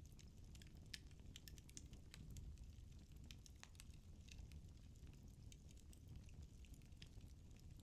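Faint crackling of a wood fire in a fireplace: many small, irregular pops and snaps from the burning logs over a low, steady rumble of flame.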